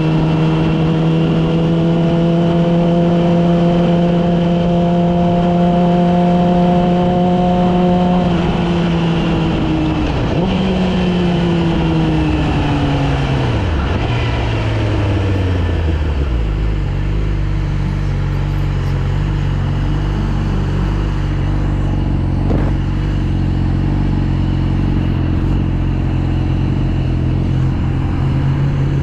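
Yamaha R6's inline-four engine held at steady revs, its pitch creeping slightly upward, then the throttle closes about eight seconds in and the revs fall away, with a short jump in pitch near ten seconds. From about sixteen seconds the engine settles into a steady low idle.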